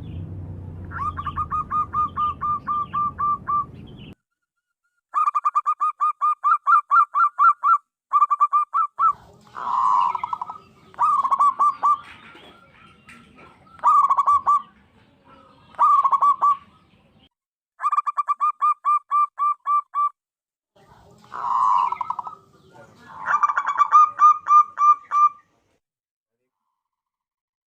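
Zebra dove (perkutut) cooing: bouts of rapid staccato notes, about seven a second, repeated several times with short pauses between, with a few longer, louder coos among them. A low hum runs under the first few seconds.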